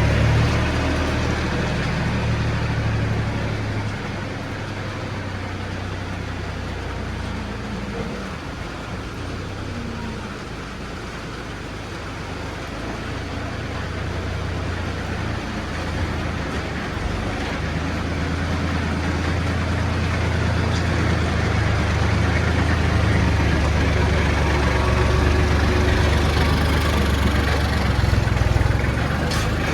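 A vehicle engine running steadily with a low hum. It grows a little quieter for several seconds, then louder again through the second half.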